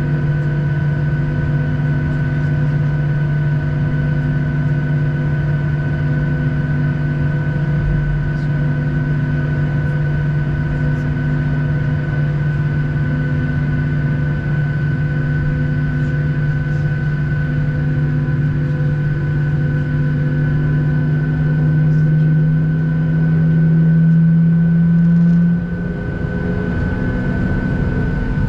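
Steady cabin drone of a Boeing 737-800 during its engine start sequence: a loud hum with several steady tones and a faint pulsing about once a second. Near the end the low hum swells and rises slightly in pitch, then drops off suddenly.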